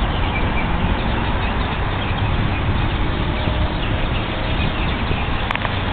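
Birds chirping and calling over a dense, steady hiss, recorded through a low-quality phone microphone. There is a single click near the end.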